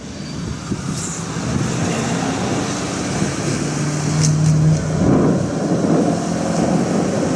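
Rumble of a passing vehicle that fades in and grows louder over the first few seconds, with a few sharp clicks and a brief steady hum a little past the middle.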